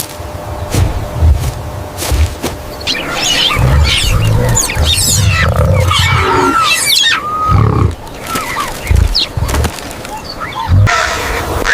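A mix of wild animal calls: high squeaky, gliding calls in the middle over repeated low rumbles.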